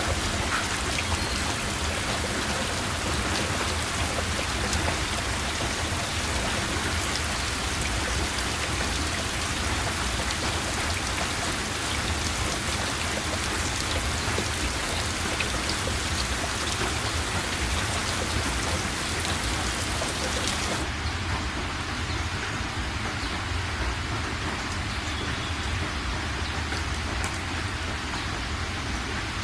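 Heavy rain falling steadily on a metal roof: a dense hiss with many small drop ticks over a steady low rumble. About two-thirds of the way through, the highest part of the hiss drops away suddenly.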